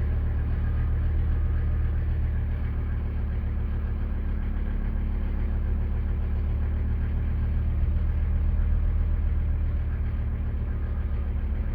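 1984 Mercedes-Benz 300TD's five-cylinder turbodiesel engine idling steadily while still cold, shortly after a cold start at 16 °F.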